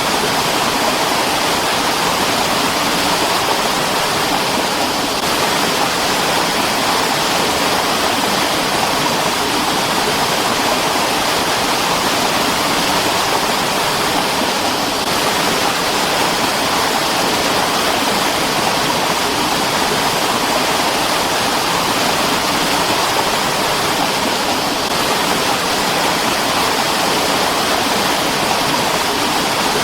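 Mountain stream rushing steadily: an even, unbroken rush of flowing water.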